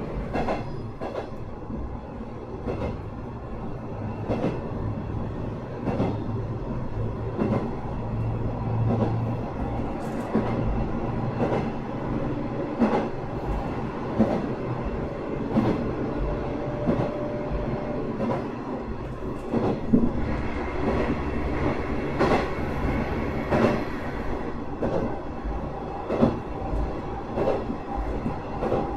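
Sanriku Railway 36-700 series diesel railcar running at speed, heard from inside the passenger cabin: a steady engine and running drone, with wheels clicking over rail joints about every second and a half.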